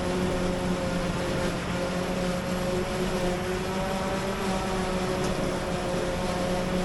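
Heavy diesel engine of silage-harvesting machinery running steadily under load: a constant-pitch drone with no change in revs.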